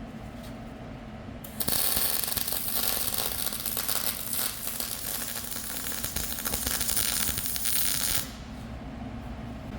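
MIG welder crackling steadily in one run of about six seconds, starting near two seconds in and stopping near eight seconds, with a low workshop hum before and after.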